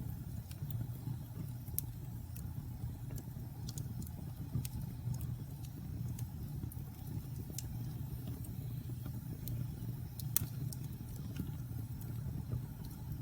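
Wood fire burning in a fireplace: a steady low rumble of flames with irregular crackles and pops, a sharper pop about ten seconds in.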